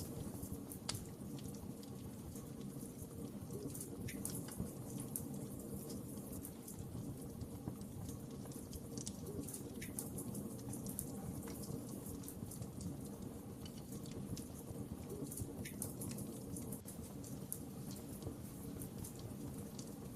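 Wood fire crackling: scattered sharp pops and snaps over a steady low noise from the burning fire.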